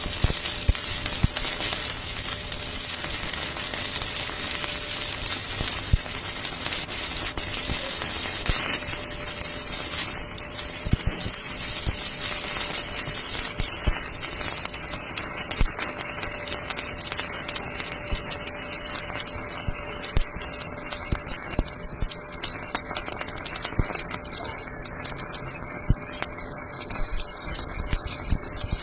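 Electric arc welding: the arc crackles and sizzles steadily through one long continuous bead, starting abruptly and stopping just as abruptly after about half a minute.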